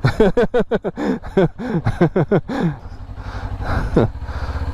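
Motorcycle engine idling with a low, even pulse, heard on its own once the talking stops about three seconds in.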